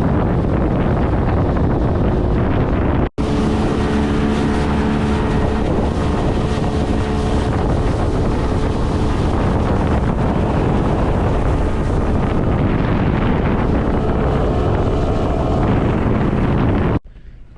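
Boat motor running underway with heavy wind buffeting the microphone; a steady engine hum stands out for several seconds after a momentary break about three seconds in, and the sound cuts off abruptly near the end.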